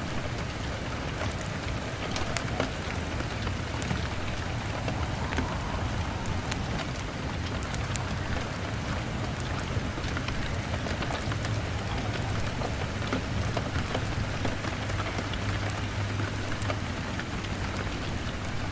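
Steady rain on a window pane, mixed with a crackling log fire, with scattered sharp pops over a low, steady rumble.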